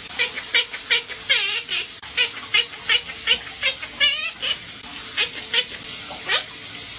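Pet parrot giving a quick string of short, high chirps and squeaks, about two or three a second, with a couple of longer warbling calls mixed in. The chirps thin out near the end.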